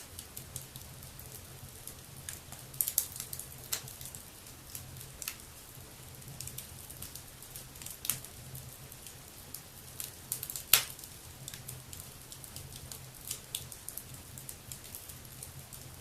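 Wood fire burning in a fireplace, crackling with irregular small snaps and a few louder pops, the loudest a little before the 11-second mark.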